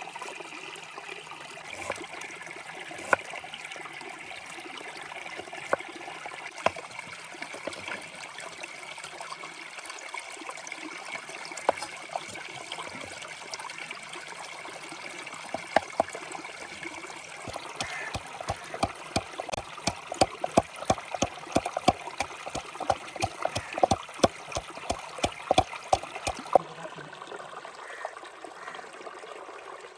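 A steady trickling, water-like hiss with occasional sharp knocks, then a run of quick, even knocks, about three or four a second, lasting some nine seconds from a little past halfway.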